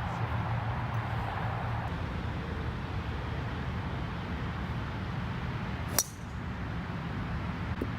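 A steady low hum with one sharp crack about six seconds in, a golf club striking a ball.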